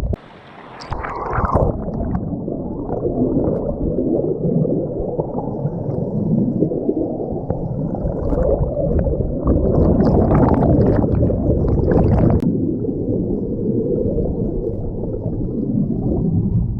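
Car driving, with a steady low rumble of road and engine noise. The level drops briefly in the first second, and there are some brief brighter rattles in the middle.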